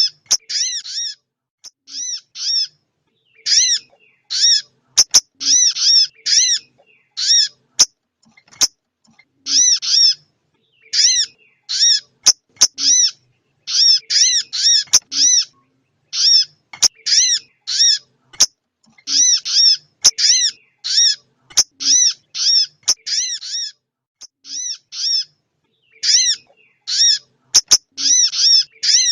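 Female little spiderhunter (sogok ontong) calling: short, high, arched chip notes repeated in quick runs of two to five, separated by brief pauses. A few sharp clicks come between the calls.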